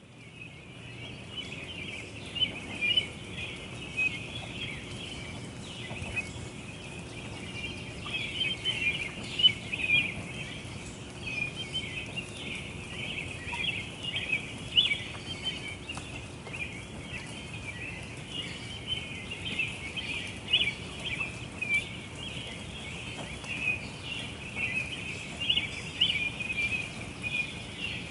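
A chorus of many small birds chirping together, dense and continuous, with frequent louder chirps standing out over a low background rumble. It fades in at the start.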